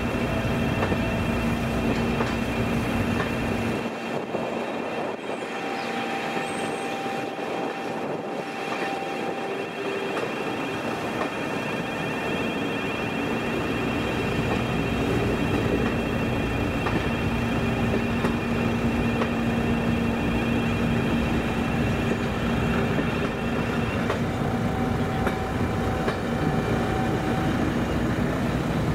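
Rail tour coaches rolling steadily through a level crossing, wheels running on the rails. A steady level crossing alarm sounds over the train; the uploader calls it very poorly-sounding.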